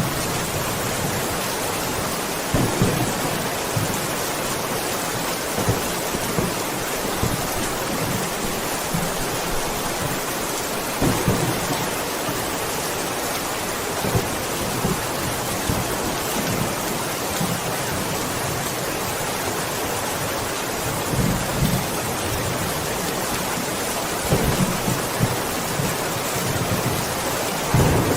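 Steady rain falling, an even hiss, with several short, low rumbles of thunder scattered through it.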